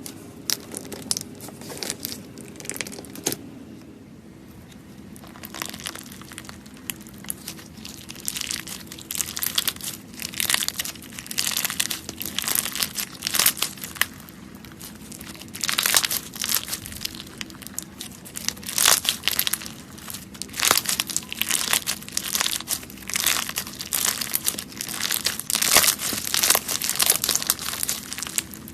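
Crunchy slime being squeezed and pressed by hand, giving dense crackling and crunching, quieter in the first few seconds and then in louder clustered bursts.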